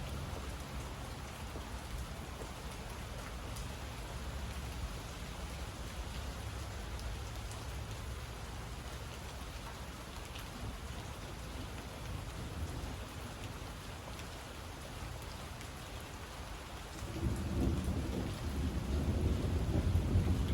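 Steady rain falling with a thunderstorm. A low thunder rumble dies away at the start, then a louder roll of thunder rises near the end.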